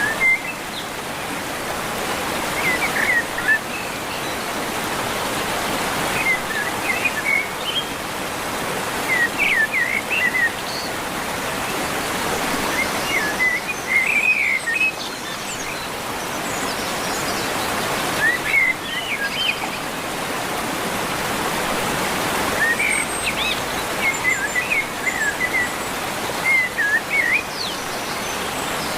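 A songbird chirping in short, quick phrases every few seconds over a steady rushing background noise.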